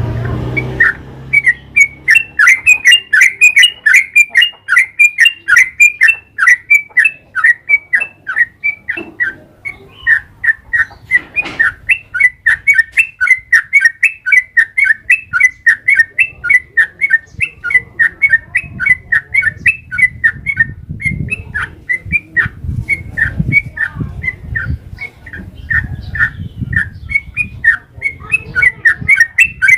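Yellow-vented bulbul singing a long, unbroken run of quick, loud chirping notes, about three or four a second.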